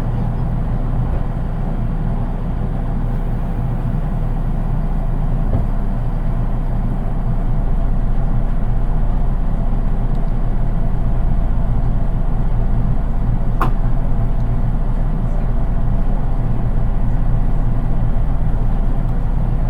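Running noise inside the unpowered driving trailer car of a JR East 183 series electric train: a steady rumble of wheels on rail that grows a little louder after about eight seconds, with one sharp click about two-thirds of the way through.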